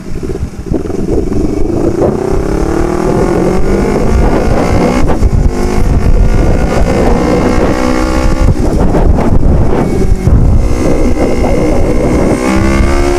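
Yamaha R25 parallel-twin engine through a Proliner full-system exhaust, accelerating on the road. Its pitch rises in a long pull over the first few seconds, then climbs again in shorter pulls broken by gear changes about five, nine and ten seconds in, with wind buffeting the microphone.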